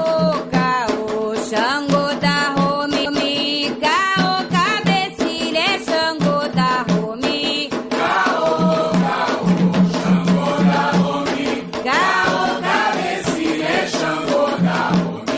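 Afro-Brazilian Umbanda/Candomblé devotional chant: voices singing a melody over hand drums keeping a steady beat.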